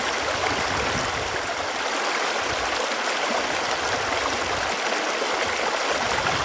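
Running water flowing steadily, an even rushing with a light gurgle.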